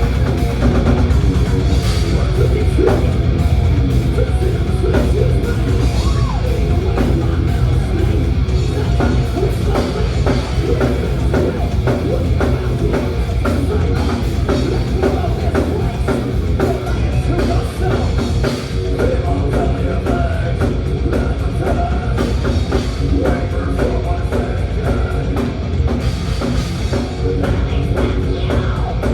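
Thrash metal band playing live: loud, dense distorted rock with a drum kit hitting rapid, closely spaced strokes throughout.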